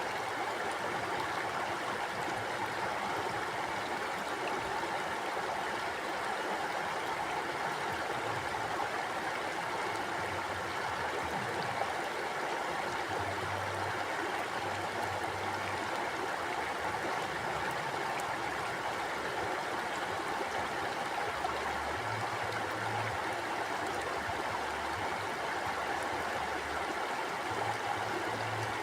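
Mountain stream flowing steadily over rocks: a continuous rush of water with no breaks.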